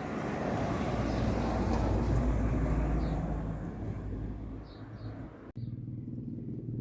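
Helicopter flying past: a broad rotor and engine noise with a deep low band swells to its loudest about two seconds in and then eases off. About five and a half seconds in it cuts off abruptly, replaced by a steady engine drone.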